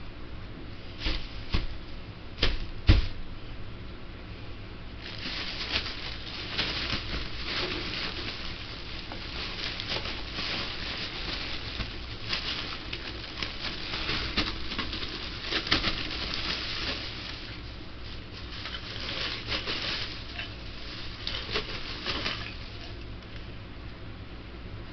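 A few sharp knocks in the first three seconds, then a long stretch of dense crackling and clicking, like something being handled, rustled or crinkled, that thins out near the end.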